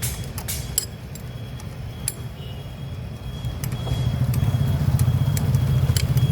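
Metal tools and parts clinking over the low rumble of an engine running, which grows louder about four seconds in.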